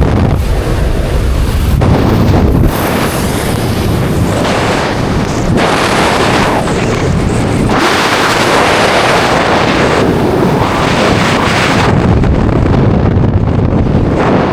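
Heavy wind buffeting the microphone in a steady loud rush, its tone shifting every few seconds, with a deep rumble in the first couple of seconds.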